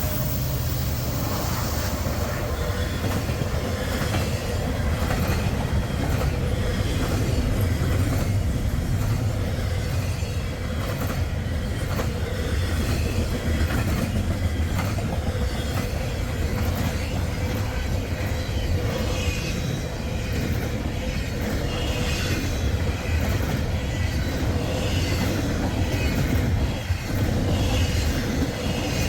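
Freight train rolling past close by: a continuous heavy rumble of the cars with a steady clatter of wheels over the rail joints.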